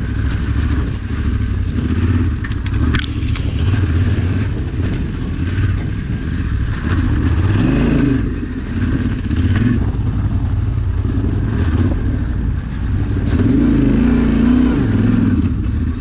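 Yamaha Ténéré 700's parallel-twin engine working hard off-road, its revs rising and falling. Knocks and clatter come through, the sharpest about three seconds in.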